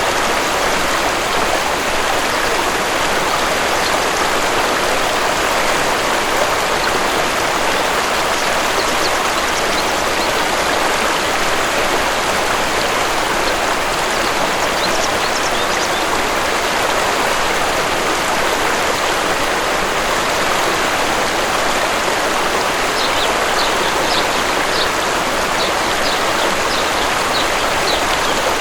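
Steady rushing of a waterfall. Birds chirp briefly about halfway through and give a run of short, high chirps near the end.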